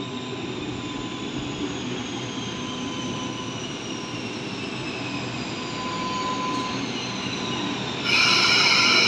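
8-car K-set electric suburban train arriving and slowing, a high whine from the train falling steadily in pitch as it decelerates. About eight seconds in, a loud, high-pitched squeal sets in as it comes toward a stop.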